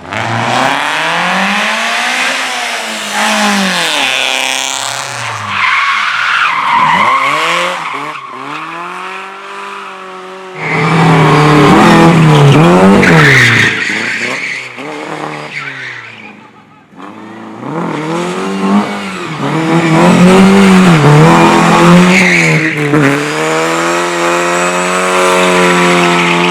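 Race car engines revving hard and dropping off again and again as cars are driven flat out and slid through corners, with tyre squeal. The engine is loudest from about 11 to 14 seconds and again from about 18 seconds, with a brief lull just before.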